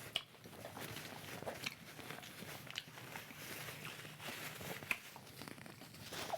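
Close-miked chewing of a banana lumpia, a fried spring roll with a soft, slightly soggy wrapper: scattered short wet mouth clicks and light crunches.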